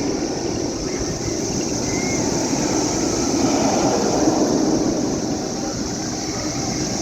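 Loud, steady drone of a cicada chorus, a high even hiss that neither breaks nor changes, over a continuous low rumble.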